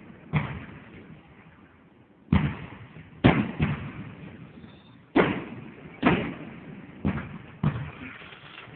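Aerial fireworks exploding: about eight booms at irregular intervals, each trailing off in a short echo.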